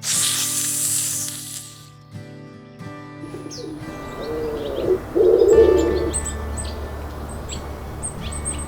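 A loud hiss in the first second or two, then low pigeon-like cooing calls from a few seconds in, the loudest just past the middle, with small birds chirping in short, high, repeated notes over a low hum.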